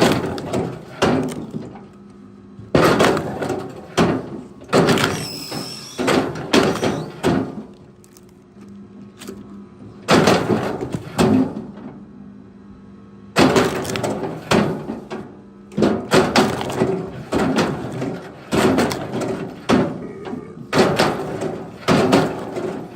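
Chunks of firewood clunking and cracking against one another as they are handled and thrown, a long irregular run of wooden knocks with a couple of short pauses, over a faint steady hum.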